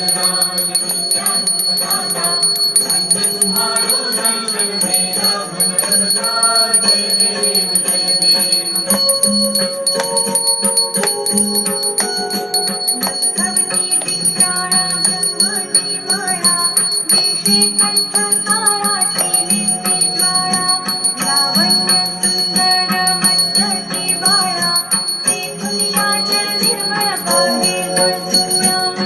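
Ganesh aarti devotional music with bells ringing continuously throughout.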